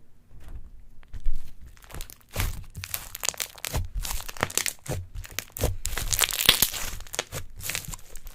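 Slime being squeezed and pulled, giving a run of crackling, crunching pops. A few separate clicks come first, then dense crackling from about two seconds in.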